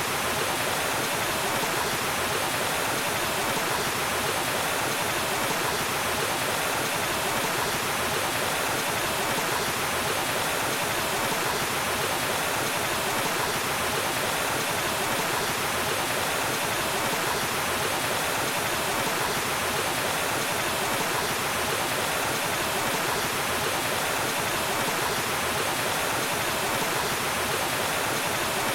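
Waterfall: a steady, unchanging rush of falling water, with no breaks or other sounds.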